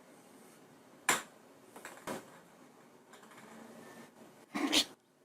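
A sharp click about a second in, two fainter clicks a moment later, and a short, louder noise near the end.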